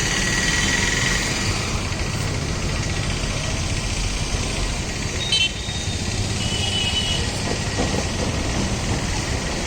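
Loaded Ashok Leyland lorry's diesel engine running steadily as it drives over broken road. A brief high chirp sounds about five seconds in.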